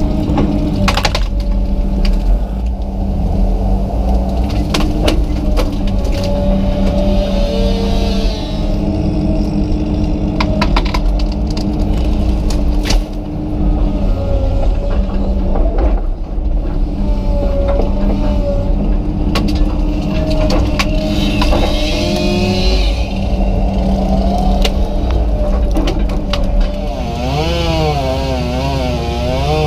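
Komatsu PC200 excavator's diesel engine running under load, with a hydraulic whine that rises and falls and wavers near the end. Sharp cracks and knocks come and go throughout as the machine breaks off trees and branches.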